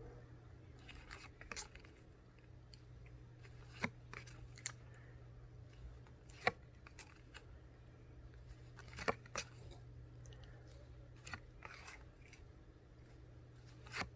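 Quiet room with a steady low hum and scattered soft taps and rustles, about seven of them and a second or more apart, as paper flashcards are handled and turned.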